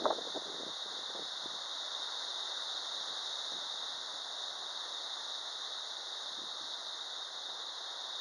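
Steady hiss of typhoon rain and wind, an even noise with no breaks.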